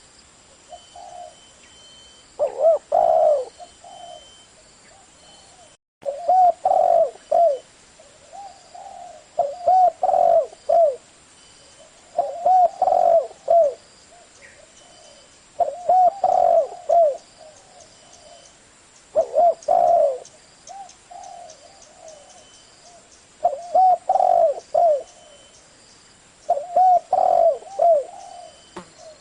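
Spotted dove cooing: loud phrases of several arched coo notes come about every three to four seconds, with softer coos between them. The sound cuts out completely for a moment about six seconds in.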